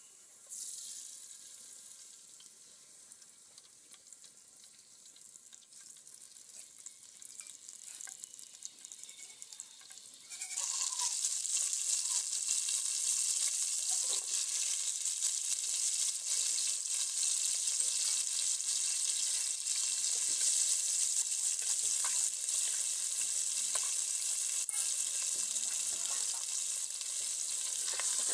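Hot oil sizzling softly in a cooking pot and slowly growing louder; about ten seconds in, a sudden loud hiss as onion and salt go into the oil, then a steady loud sizzle of frying with the odd click of a ladle stirring.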